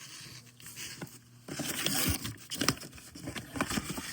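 Handling noise from firework cake packaging: rustling, scraping and crinkling with small clicks, starting about a second and a half in.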